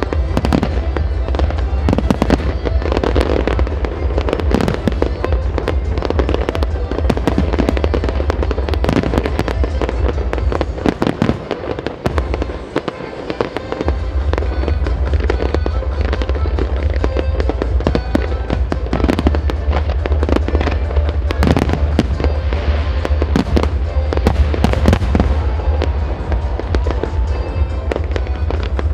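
A fireworks display: shells and ground-fired effects launching and bursting in quick, irregular succession, a dense run of bangs and crackles. Under it runs a steady low rumble that drops out briefly around twelve seconds in.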